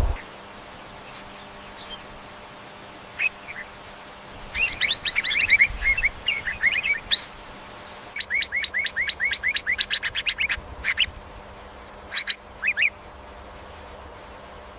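A bird chirping in short, sharp calls: a few single chirps, then a busy flurry, then a fast even run of about five notes a second, and a couple more chirps a little later.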